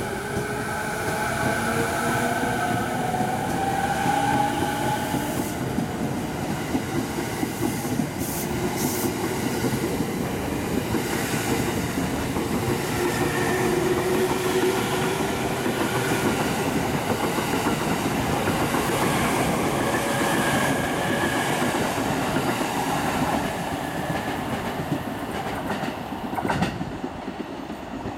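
E217-series electric train pulling out of the station. Its motors whine, rising in pitch over the first few seconds as it speeds up. Then comes a steady rumble and clickety-clack of wheels as the cars roll past, fading near the end as the last car clears.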